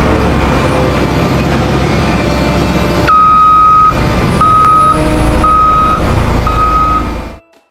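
Heavy vehicle engine running steadily, then a reversing alarm beeping four times about a second apart over it, the first beep longer than the others. The sound cuts off suddenly near the end.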